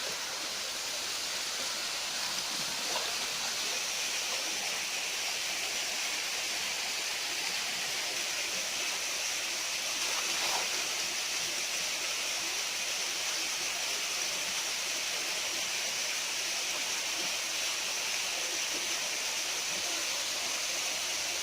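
Steady rush of flowing river water over a small waterfall, an even hiss that holds at one level.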